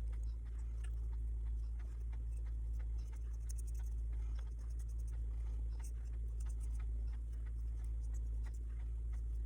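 Paintbrush strokes and dabs making faint, irregular scratchy ticks on a small craft birdhouse, over a steady low hum.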